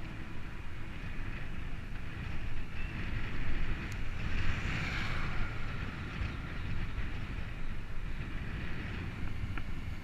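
Wind rumbling on the microphone of a moving bike, mixed with road noise; the hiss swells louder about four to five seconds in.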